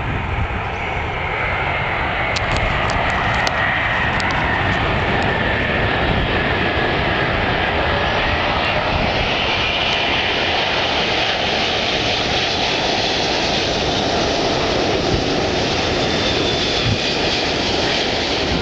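Airbus A380's four jet engines running loud as the airliner flies low past on its landing approach: a steady rushing noise with a faint high whine that glides slowly in pitch, swelling over the first couple of seconds and then holding.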